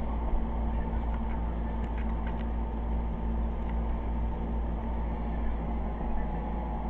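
Steady hum of small electric cooling fans, with a low rumble and several steady low tones, and a few faint clicks in the first half.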